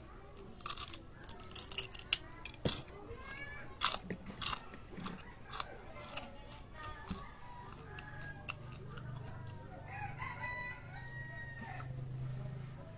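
Crisp crunching and chewing of raw green chili peppers bitten off close to the mouth, the sharpest crunches in the first half. A rooster crows about ten seconds in.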